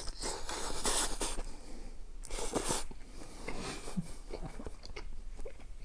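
Close-miked eating sounds: a person chewing, with two longer airy sounds, the first lasting about a second and the second, shorter one about two seconds in, among small wet clicks.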